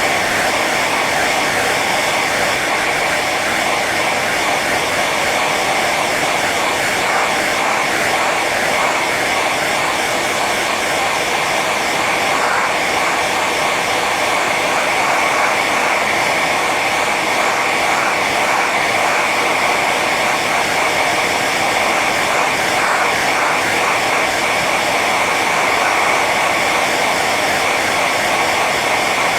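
Hair dryer running steadily on its high setting: a constant airy rush of blown air with a steady high whine from the motor.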